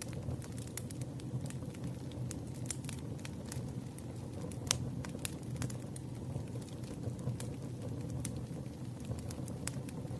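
Campfire burning: irregular sharp pops and crackles of burning wood over a steady low rumble, with one louder pop about halfway through.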